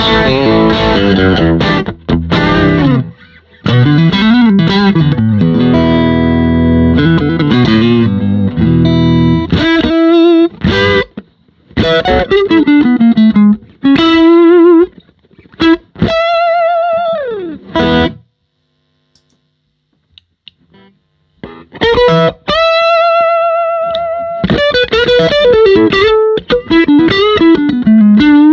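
Electric guitar (a Fender Stratocaster) played through an EWS Brute Drive overdrive pedal into a miked Fender Bassman amp, giving an overdriven tone. It plays strummed chords and sustained lead notes with vibrato and bends, stopping for about three seconds partway through.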